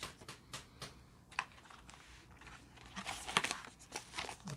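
Cardboard and paper packaging being handled while a box is unpacked: scattered light taps and clicks, then busier rustling and crinkling from about three seconds in.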